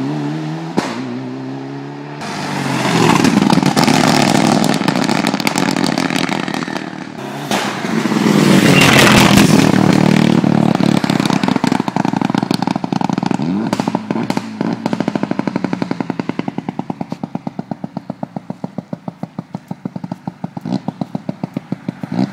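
Mitsubishi Lancer Evo 9 Group N rally car's turbocharged four-cylinder running with its HKS anti-lag system switched on. It is blipped up twice, crackling, then drops back to a lumpy idle punctuated by a rapid, regular train of sharp exhaust pops, about five a second. These are the anti-lag firing to keep the turbo spooled.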